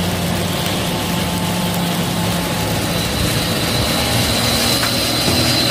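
Heavy rain falling in a steady hiss, with the low drone of a truck engine and wet-road traffic under it as the truck approaches.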